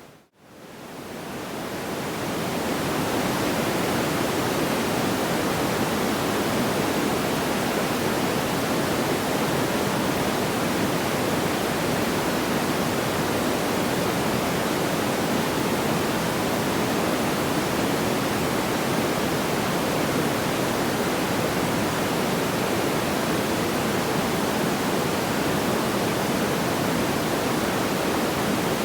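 Steady, even rushing noise like pink noise, with no separate crackles or pops. It dips to silence right at the start, then fades back up over about three seconds, as at a loop seam.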